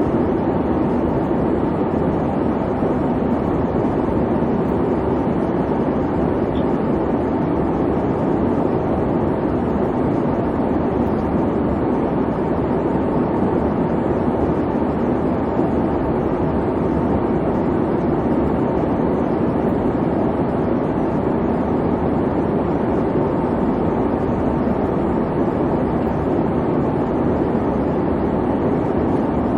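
Airliner cabin noise in flight: a steady, even rumble with no breaks or changes.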